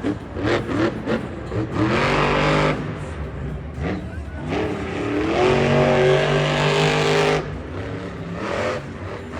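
Monster truck engine revving in bursts, rising in pitch each time, with a longer held rev in the middle that cuts off near the end.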